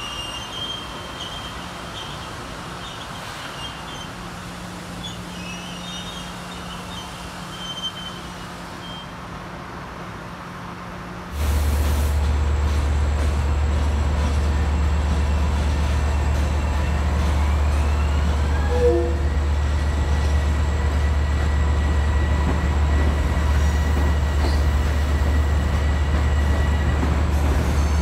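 Quiet rail-yard background with faint high chirps, then about eleven seconds in a sudden jump to the steady low rumble of a Bombardier M7 electric train running alongside the platform. A whine rises and then holds steady over the rumble.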